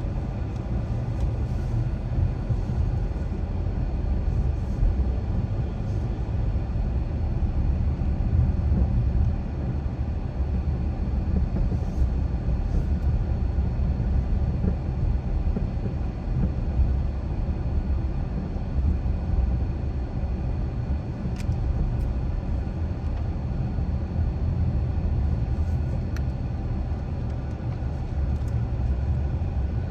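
A car driving at steady speed: an even low rumble of tyres and engine, with a few faint ticks over it.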